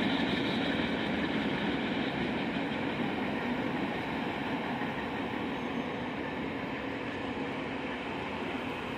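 A train rolling through a grade crossing, a steady rumbling noise that slowly fades as the train clears the crossing.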